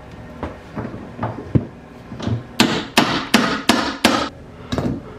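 Hammer blows during interior demolition: a few light knocks, then from about halfway through a run of five hard, sharp strikes at about three a second.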